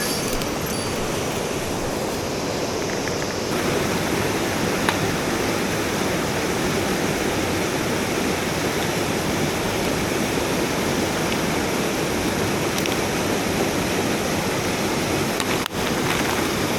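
Mountain stream water rushing over rocks, a steady loud rush with a brief dip near the end.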